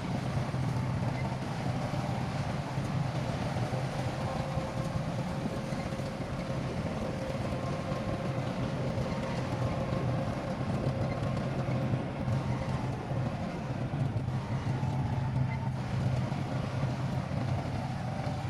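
Heavy diesel engine of earthmoving machinery running steadily, with a faint steady whine over its low hum.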